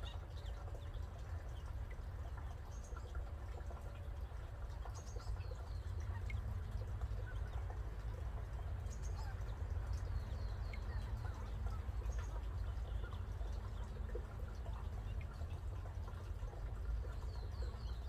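Small birds calling faintly, with short runs of quick high notes several times, over a steady low rumble.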